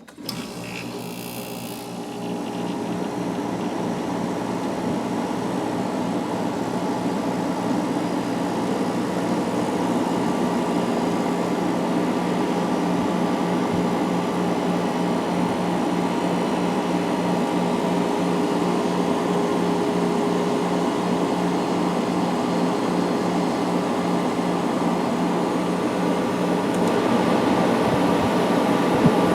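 Amana CoolZone 6,500 BTU window air conditioner with a rotary compressor, starting suddenly from quiet and building over about two seconds, then running with a steady hum of compressor and fan.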